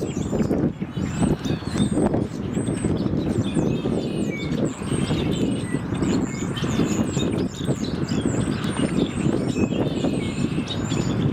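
A flock of birds chirping and calling rapidly, many short overlapping chirps, over a loud, steady low rumble.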